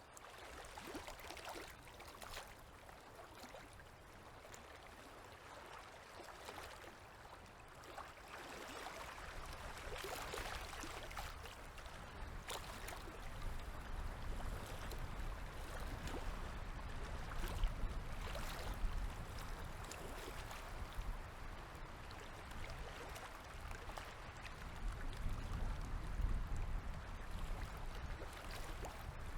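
Small river waves lapping and splashing against the shore, with irregular splashes. A low rumble joins in about a third of the way through and swells again near the end.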